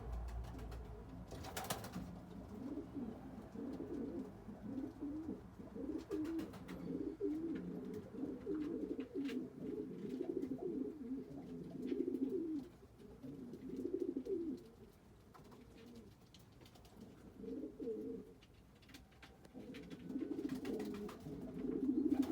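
Domestic pigeons cooing, low repeated phrases in runs with a quieter break about two-thirds of the way through, and a few sharp clicks scattered among them.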